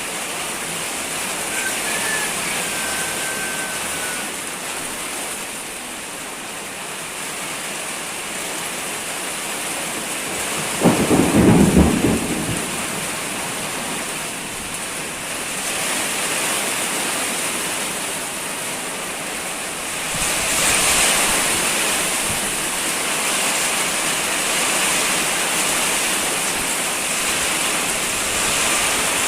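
Heavy rain pouring steadily, with a short, loud crack of thunder about eleven seconds in. The downpour grows heavier about twenty seconds in.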